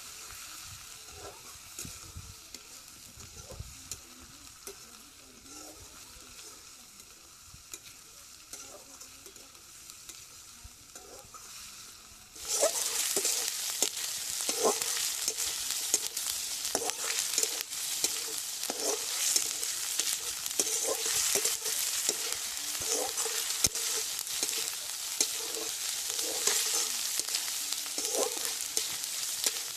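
Curry frying and sizzling in a pan while it is stirred, the utensil scraping the pan roughly once a second. About twelve seconds in the sizzle turns abruptly much louder.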